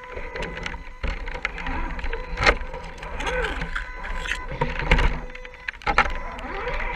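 RC scale crawler's small electric motor whining up and down in pitch as it drives, with repeated sharp clicks and knocks, the loudest about two and a half and five seconds in.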